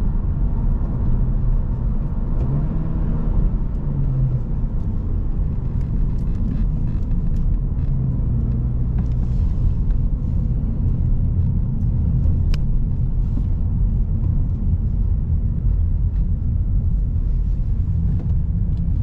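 2022 Honda Civic Si's turbocharged four-cylinder engine and road noise while driving, a steady low rumble. The engine pitch shifts slightly a few seconds in, and a few light clicks sound over it.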